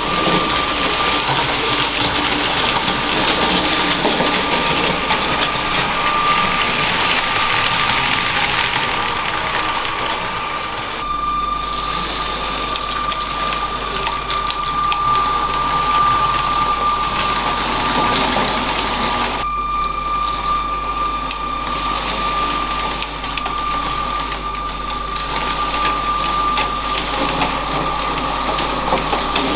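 LEGO train's small electric motor running with a steady high whine, its wheels rolling on plastic track. The sound changes abruptly about eleven seconds in and again about nineteen seconds in.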